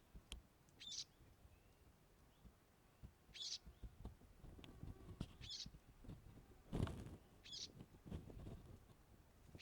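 A bird giving a short, high call four times, about every two seconds, over a low rumble with a few knocks, the loudest about seven seconds in.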